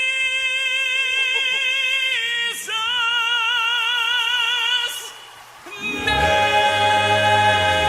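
Southern gospel quartet singing live: a solo high tenor voice holds a long note with vibrato on "Jesus'", moving to another held note about two and a half seconds in. About six seconds in, the full quartet comes in with a loud chord carried by a low bass voice.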